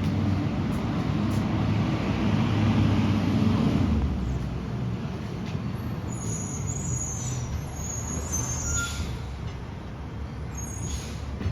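Garbage truck's diesel engine running, loudest for the first four seconds and then easing off. Short high squeaks come in about six to nine seconds in.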